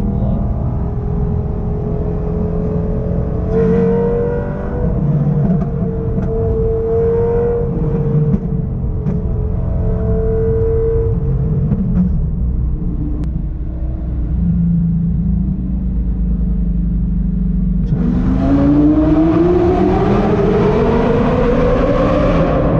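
Lamborghini Gallardo's V10 with an aftermarket exhaust running at fairly steady revs while driving, then accelerating about eighteen seconds in, its pitch climbing steadily.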